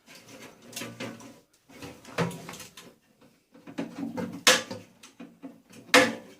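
Scrap electrical parts being handled and knocked about while being stripped: about four sharp knocks and clatters with rustling handling noise between, the loudest two in the second half.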